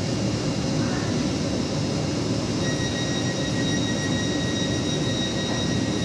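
Hitachi Class 802 bi-mode train standing at the platform with its underfloor equipment running, a steady rumbling hum. About two and a half seconds in, a steady high-pitched whine joins it and holds.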